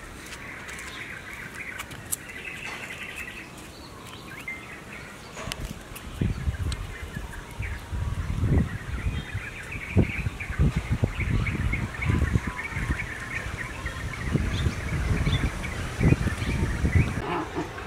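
Small birds chirping steadily in the background. From about six seconds in, repeated low rumbling gusts come in and become the loudest sound.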